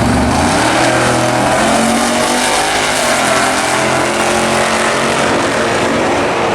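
Drag racing car engines running at high revs, loud and continuous, their pitch shifting as they pull down the strip.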